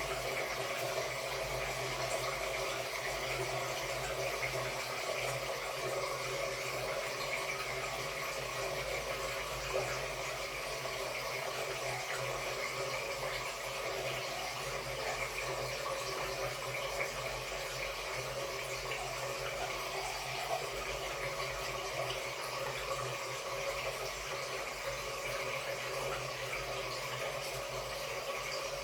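14 kg Samsung Wobble top-load washing machine running a wash cycle with a comforter inside, with a steady, unbroken sound of water.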